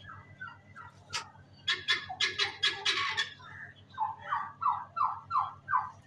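Turkeys calling: a few dense bursts of calls, then a run of short, falling calls repeated about three times a second.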